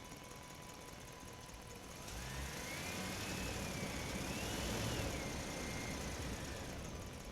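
A small motor whining over a steady hum: from about two seconds in it grows louder with a hiss, and its pitch rises, dips, rises again and then falls away before the end.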